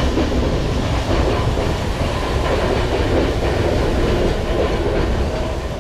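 Narrow-gauge steam train running through a rock tunnel, heard from an open carriage window: a loud, steady rumble of the train on the track, held in by the tunnel walls.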